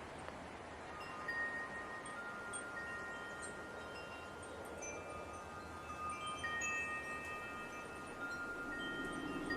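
Wind chimes ringing, several metal tubes struck at once from about a second in, their tones overlapping and slowly dying away. Light wind blows steadily underneath, rising near the end.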